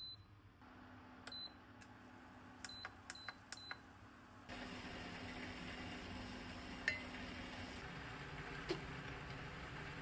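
Kitchen appliance control panel beeping five times as its buttons are pressed, then the appliance starting up with a steady low hum about halfway through, with a light clink or two over it.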